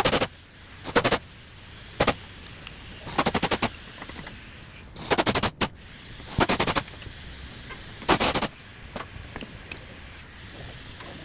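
Short bursts of rapid metallic hammering from an air impact wrench, typical of the wrench running bolts on a Toyota 1MZ V6 engine. There are seven bursts, each under half a second and about a second or so apart. Only faint ticks follow, from about nine seconds in.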